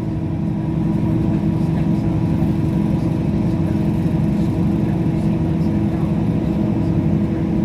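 Train running: a steady drone with several held tones over a continuous rumble.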